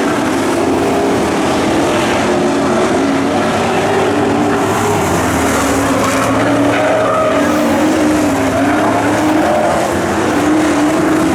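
Pro trucks racing on a dirt oval: several engines running at once, their pitch rising and falling as they accelerate and lift through the turns.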